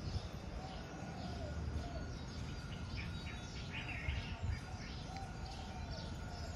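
Small birds chirping here and there over a steady low outdoor rumble.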